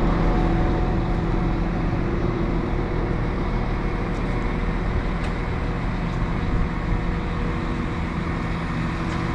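Diesel train engine running steadily, a continuous rumble with a steady hum of several tones.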